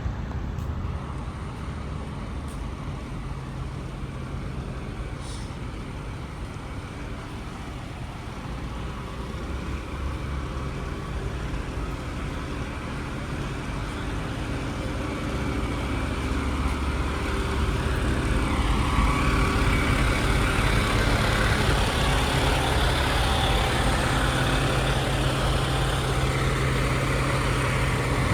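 Tiller ladder fire truck's diesel engine running steadily, a low even hum that grows louder and fuller over the second half.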